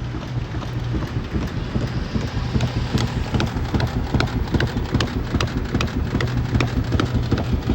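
Samsung washing machine running with a steady low hum and a fast, irregular rattling clatter that grows denser about three seconds in.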